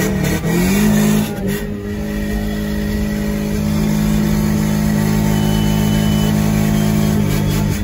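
Car engine revved up about a second in and held at steady high revs for several seconds, dropping back just before the end.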